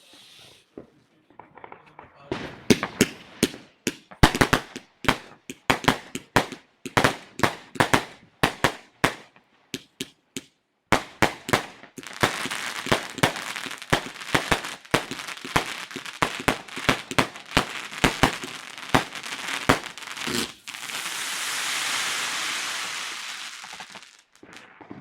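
Consumer New Year's fireworks going off: a rapid series of sharp bangs, about two a second, then dense crackling mixed with bangs from about halfway, and a few seconds of steady hissing near the end.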